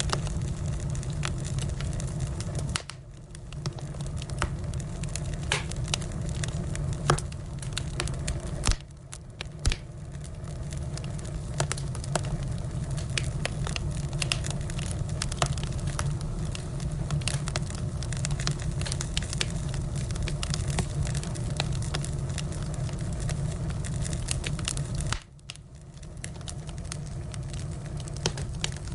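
Firewood burning, crackling with a steady scatter of sharp pops over a low, even rumble of flame. The sound drops off suddenly three times and builds back up over a second or two.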